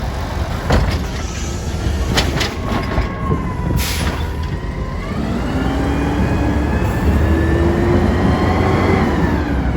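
Garbage truck at work: a few clanks and a short hiss of air in the first four seconds, then the engine revs up with a rising whine from about five seconds in, holds, and drops back near the end.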